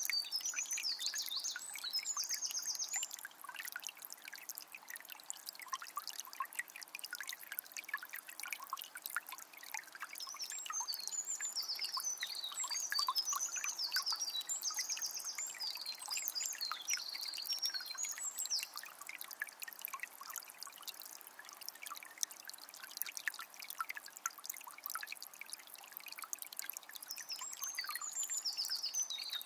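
Forest river flowing with a steady trickling, splashing sound. A songbird sings bursts of quick high notes at the start, through the middle and again near the end.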